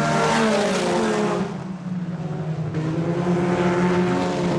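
Several IMCA Sport Compact race cars' four-cylinder engines running hard, a pack of cars going by with engine notes rising and falling over one another. The sound dips briefly about a second and a half in, then swells again.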